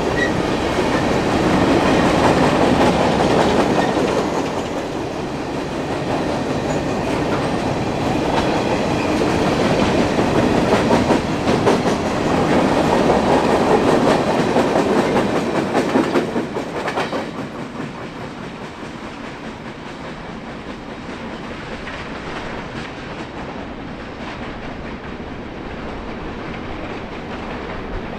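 Empty open-top hopper cars of a long freight train rolling past. About two-thirds of the way through, the last car goes by and the sound drops to a fainter rumble as the train moves away.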